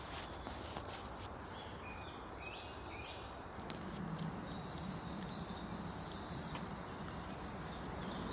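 Small songbirds chirping and calling over a steady outdoor background hiss, with a low hum that comes in about halfway through.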